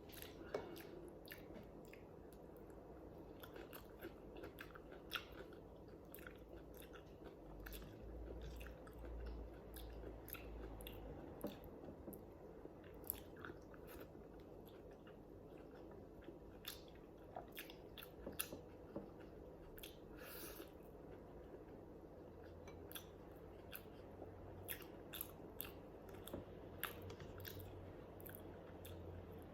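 Faint, close-up chewing of food, with many short wet mouth clicks scattered throughout.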